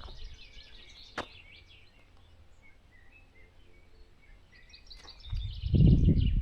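Small birds chirping and twittering. There is a sharp click about a second in, and a loud, low rumbling noise near the end.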